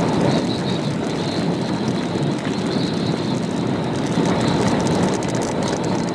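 Steady roar of storm wind and rain close to a tornado.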